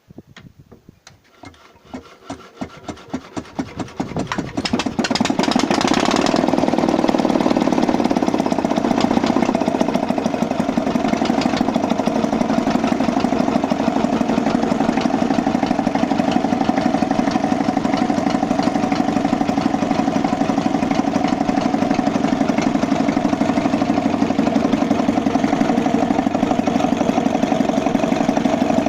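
1943 Victor 12 hp four-stroke boxer diesel engine starting: separate firing knocks come faster and louder over the first five seconds or so, then it settles into steady, even running.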